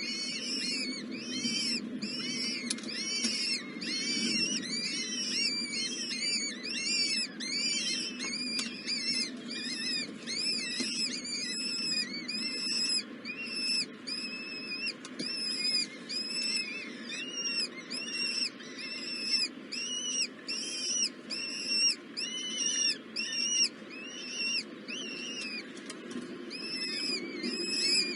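Baby birds in a nest chirping continuously: many rapid, high, overlapping chirps, several a second, over a low steady hum.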